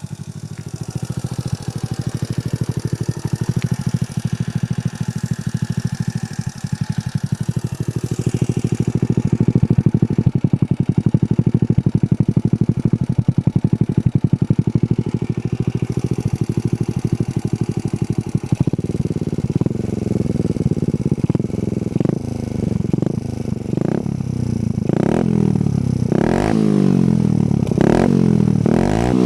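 80 cc Hero Honda motorcycle engine running through an Akrapovič exhaust. It idles steadily at first, then about two-thirds of the way through it is revved up and down repeatedly in short throttle blips.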